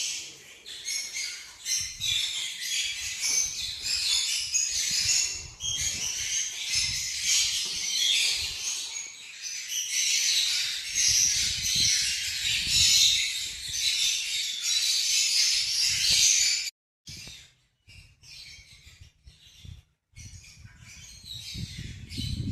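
A flock of lovebirds chattering, many shrill chirps overlapping. The chatter breaks off suddenly about three-quarters through, leaving fainter, scattered chirps.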